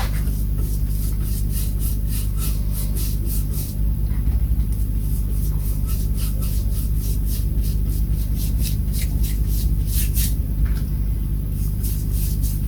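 A steady low machine hum, with a run of quick, short rubbing or scraping strokes, about three or four a second, that pause now and then.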